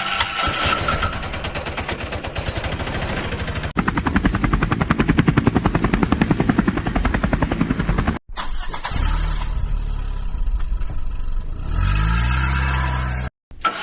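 Vehicle engine sounds in spliced segments that cut abruptly about four and eight seconds in: first a steady running engine, then a fast, even chugging, then an engine that revs up near the end.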